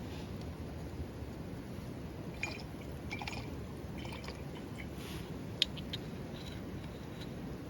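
Wood campfire burning, with irregular small crackles and one sharper pop about two-thirds of the way through.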